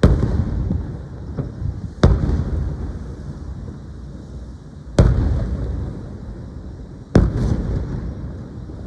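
Aerial firework shells bursting: four loud booms about two to three seconds apart, each trailing off in a long echo, with a few fainter pops between them.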